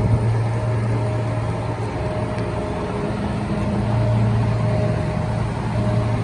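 Fire apparatus engine idling with a steady low hum.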